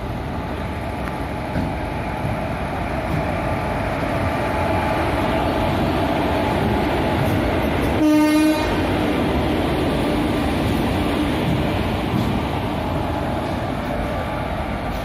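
Passenger train running with a steady rumble of wheels on track, and a short, loud blast of its horn about eight seconds in.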